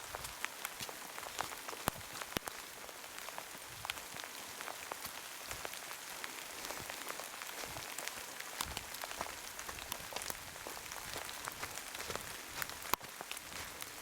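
Heavy rain falling: a steady hiss thick with the sharp ticks of individual raindrops striking close by, with one louder tap near the end.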